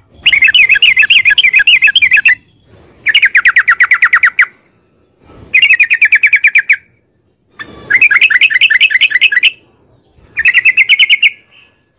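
Yellow-vented bulbul (trucukan) singing its long rapid-fire 'ropel' song: five bursts of fast, evenly repeated chirping notes, each lasting one to two seconds, separated by short pauses.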